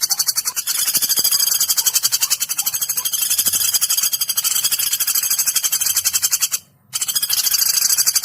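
Woodpecker calls in a loud, rapid, unbroken chattering trill of high-pitched notes, from a looped training recording for songbirds. The sound cuts out completely for a moment a little past six seconds in, where the recording is spliced, then carries on.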